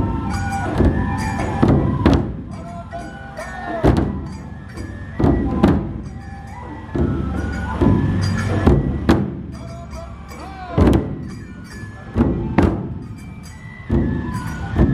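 Matsue dō-drum procession music: heavy strokes on large festival taiko drums every second or two, under a bending bamboo-flute melody and a quick, high metallic rhythm.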